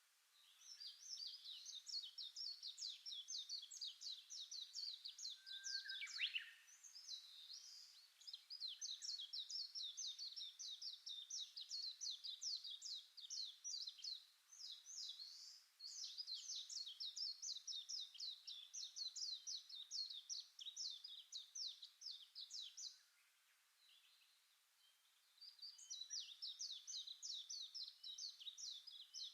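A songbird singing long, fast runs of high chirping notes, with short pauses between phrases.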